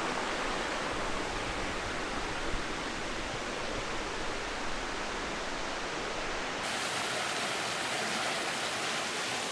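Steady rush of flowing stream water, an even hiss with no breaks; it turns brighter about seven seconds in.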